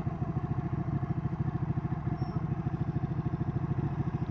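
Ducati 1199 Panigale's V-twin engine idling with an even, rapid pulsing beat and no revving.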